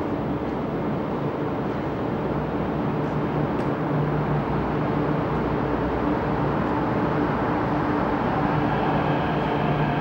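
MTR Q-train metro running on the line: a steady rumble with a low hum. A higher whine comes in near the end and loudness rises slightly as the train picks up speed.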